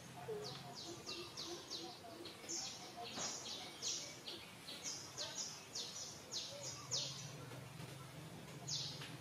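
Birds chirping: a rapid, irregular run of short, high chirps that each fall in pitch, several a second, over a faint steady low hum.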